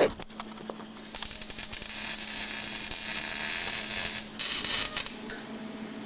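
Welder arc crackling and hissing while an oil pan is welded. The first run starts about a second in and lasts about three seconds, and a shorter one follows after a brief break. A steady low hum lies underneath, and there is a sharp click at the very start.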